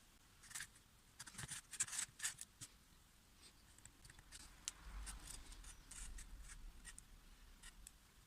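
A run of faint, light clicks and scrapes, most of them about a second or two in and again in the second half.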